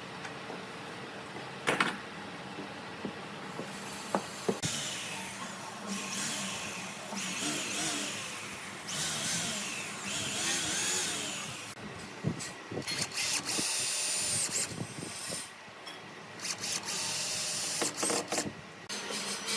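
A power tool run in a series of short bursts of a second or two each, with clicks and knocks of handling between them.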